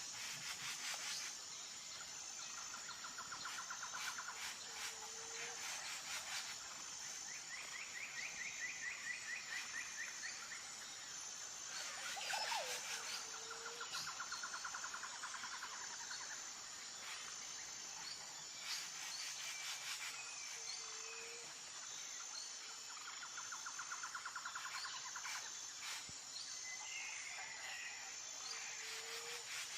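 Nature ambience of birds and insects: a steady high insect drone runs throughout, with repeated rapid bird trills and a short low note that recurs about every eight seconds.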